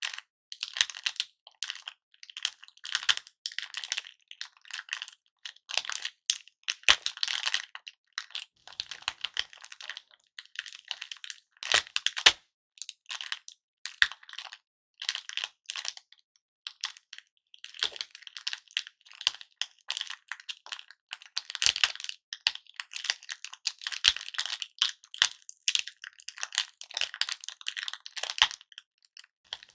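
Hard candy lollipop pieces being handled and crushed: dense crackling and clicking, with a sharper crack every few seconds.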